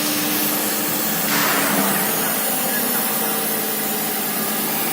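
Water-cooled spindle of a CNC router cutting aluminum: a steady, dense machining noise with faint steady tones, and a short louder rush about a second and a half in.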